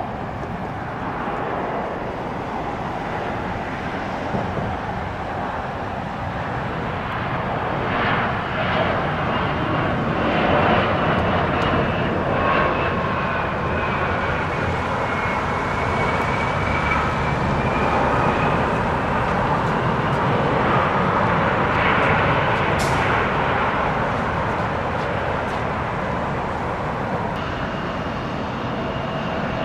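Aircraft engines passing on or near the runway: a broad rushing noise that builds over about ten seconds, stays loud, then eases slightly near the end, with a faint whine that dips in pitch and rises again.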